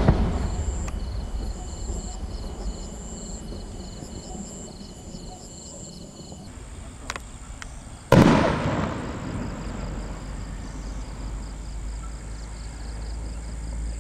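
Aerial firework shells bursting. An earlier boom's rumble fades at the start and a sharp crack comes about a second in. A loud boom about eight seconds in rolls and echoes away over several seconds.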